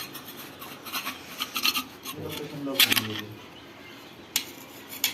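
Metal parts of a tractor gearbox being handled: scraping and rubbing of metal on metal, with a few sharp clinks, the loudest about three seconds in.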